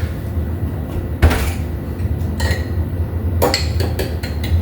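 A metal spoon clinking against a small glass while whisking eggs and milk in it: a few separate knocks at first, then a quick, even run of clinks near the end. A steady low hum runs underneath.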